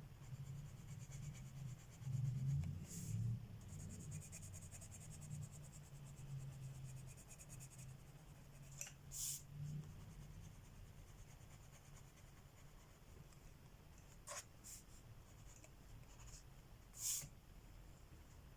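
Coloured pencil scratching on paper in rapid back-and-forth strokes, with a few brief louder scrapes.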